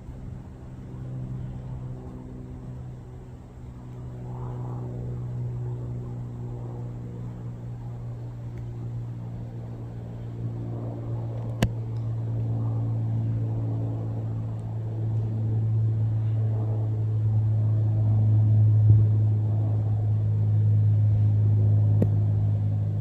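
Cessna propeller plane's piston engine drone, a steady low hum growing louder as the aircraft approaches. Two brief sharp clicks, one about halfway and one near the end.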